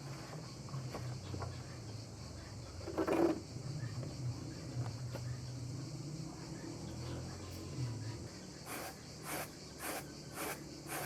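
Crickets chirping steadily in the background, with a single thud about three seconds in and a run of regular knocks, about two a second, in the last few seconds.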